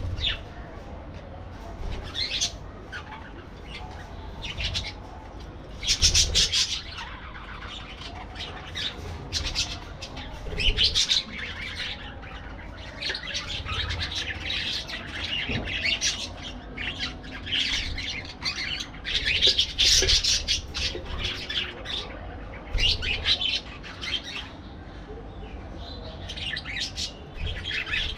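Parakeets chirping and squawking in irregular bursts of high, chattering calls that often overlap, busiest in the second half.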